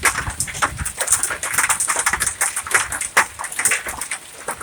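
Ping-pong-ball-size hailstones hammering down on hard surfaces: a dense, irregular clatter of sharp knocks, several every second.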